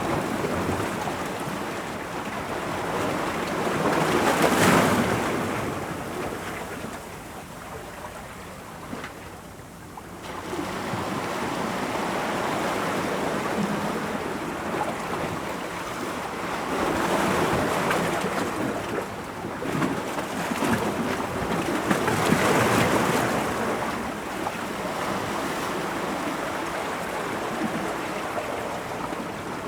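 Ocean waves breaking on rocks: a steady rush of surf that swells into louder crashes about four seconds in and twice again in the second half, with a brief lull in between.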